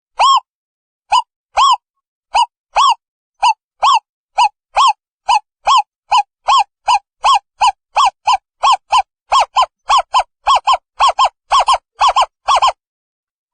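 Owl calling: a long series of short hoots, each slightly arched in pitch, starting in spaced pairs and quickening into an even run of about three notes a second before stopping near the end.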